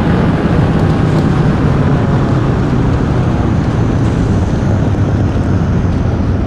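Steady wind rush on the microphone over a low, even vehicle rumble.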